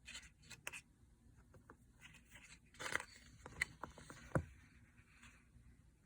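Faint handling noise of a paper picture book: scattered soft taps, a brief rustle of paper about three seconds in, and two sharp clicks shortly after.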